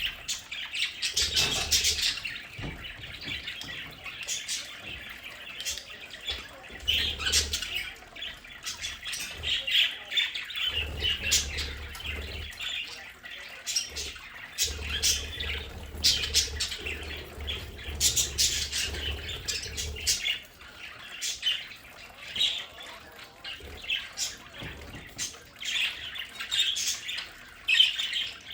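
A flock of budgerigars chirping and squawking in overlapping, continuous chatter, with sharp clicks scattered through it.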